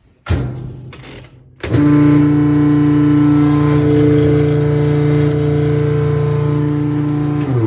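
Washing machine running with a loud grinding drone that kicks in strongly a couple of seconds in and begins winding down right at the end. The grinding comes from its transmission, which has thrown out its fluid and, in the repairman's view, probably stripped one of the main gears.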